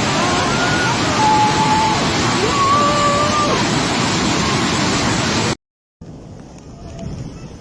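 Loud, steady rush of floodwater from heavy seasonal rain, with a few faint calls over it in the first few seconds. It cuts off suddenly about five and a half seconds in, and a much quieter scene follows.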